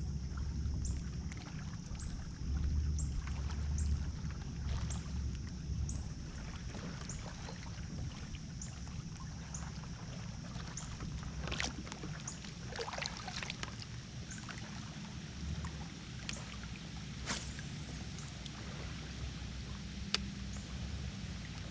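Quiet lake ambience from a kayak: a steady low rumble of wind and small water movement, with a faint high chirp repeating about every two-thirds of a second for most of the first half. A few sharp clicks of handling come later.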